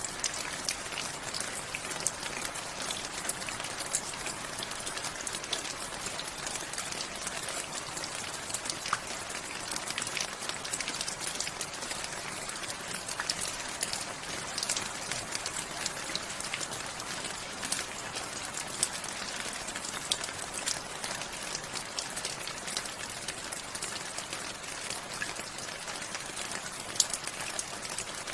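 Steady rain: a constant hiss of falling rain with many separate drop hits standing out as short sharp ticks, a few louder than the rest.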